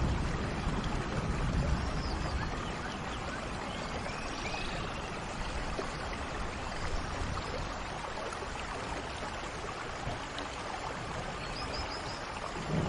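Steady heavy rain, a dense even hiss, with a few faint high chirps over it. A low rumble builds again near the end.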